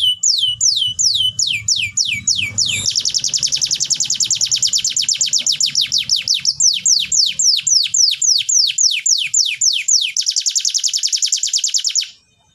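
Domestic canary singing. It repeats downward-sweeping whistled notes, breaks into a fast rolling trill, returns to quicker sweeping notes, then gives a second rapid trill that cuts off suddenly near the end.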